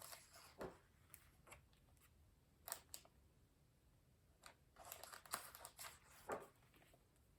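Near silence: room tone with a few faint, short clicks and rustles scattered through it.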